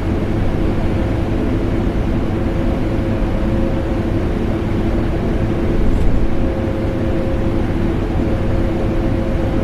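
Vacuum cleaner running steadily, mixed with air-conditioner noise: a constant rushing drone with a steady motor hum.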